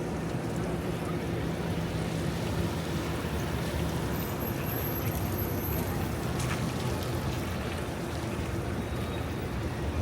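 Steady rain and traffic on a wet city street: an even wash of noise from rain and tyres, with a faint low hum underneath.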